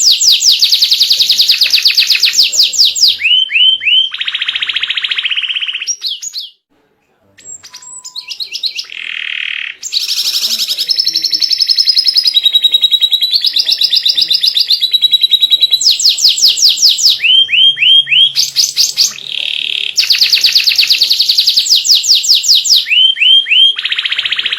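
White canary singing a long song of rapid trills and rolling, warbling phrases. The song breaks off for about a second some six seconds in, then resumes.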